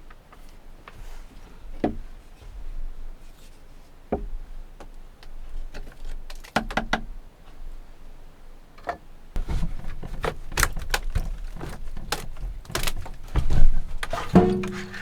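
Irregular knocks, clicks and clatter of objects being handled, sparse at first and busier from about nine seconds in over a low rumble, with a brief pitched creak near the end.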